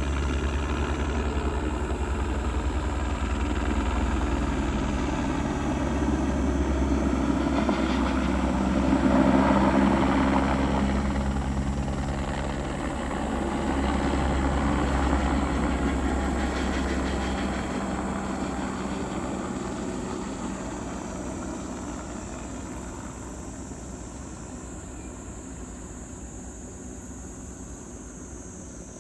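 Crop-spraying helicopter flying past with a low rotor beat. It is loudest about nine seconds in, then fades steadily as it flies away.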